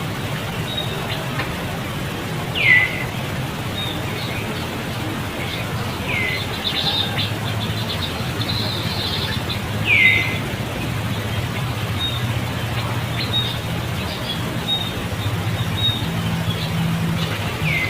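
Outdoor animal calls: four loud, short, high calls that each fall quickly in pitch, spaced a few seconds apart, with small high chirps scattered between them. A steady low hum runs underneath.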